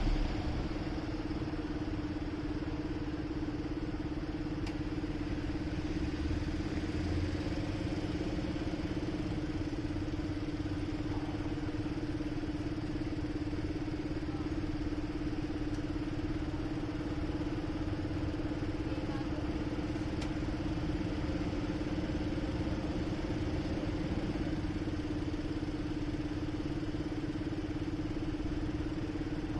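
Motorcycle engine idling steadily with the bike at a standstill, holding one even, unchanging note.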